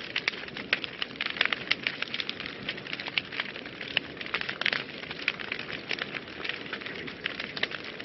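Wood fire burning in a fireplace, crackling steadily with many irregular sharp pops and snaps over a low hiss.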